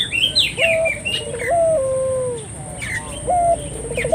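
Barbary dove (burung puter) cooing: two low, stepped coo phrases, one about half a second in and another about three seconds in. Small birds chirp higher up, mostly in the first second.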